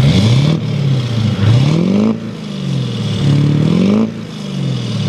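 Chevrolet Silverado 2500 HD's 6.6-litre Duramax turbodiesel V8, breathing through a new MBRP aftermarket exhaust, revved hard three times while the truck stands still. Each time the revs climb quickly, then drop straight back.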